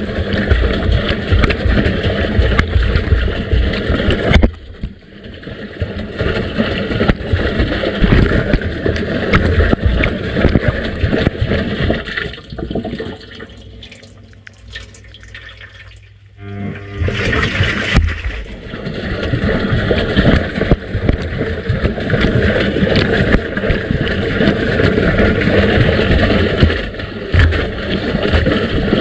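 Washing machine drum turning laundry through water, with continuous sloshing and splashing. The sloshing dips briefly about four seconds in and dies down for a few seconds in the middle as the drum pauses, then picks up again when it turns.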